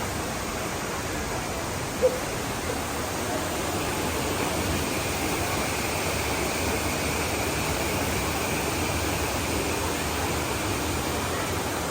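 Steady rush of the Düden waterfall's falling water, with one brief click about two seconds in.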